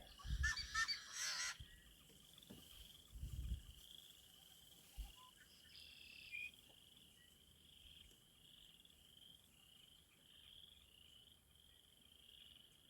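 A faint high-pitched trilling chorus repeating in short pulses about twice a second, the sound of a spring marsh. A bird calls in a quick jumble of notes during the first second and a half.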